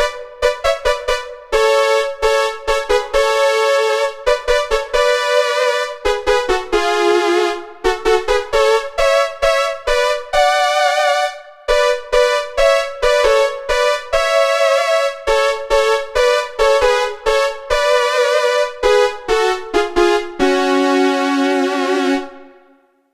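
Yamaha SY77 synthesizer playing a bright electric-piano-like patch: a quick run of struck notes and chords that ends in a held chord fading out near the end.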